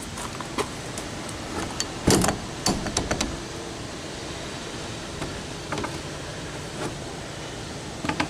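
Scattered clicks and knocks of door-latch hardware and tools being handled on the trailer door, with a louder cluster of clatter about two to three seconds in, over a steady background noise.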